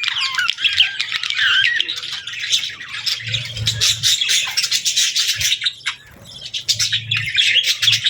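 Many small birds chirping, chattering and squawking at once in a dense, continuous stream. The calls ease off briefly about six seconds in, then pick up again.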